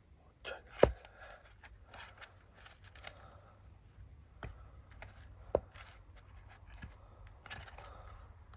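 Firewood being split by hand: two sharp chopping strikes, about a second in and again about five and a half seconds in, with lighter knocks and rustling of wood between them.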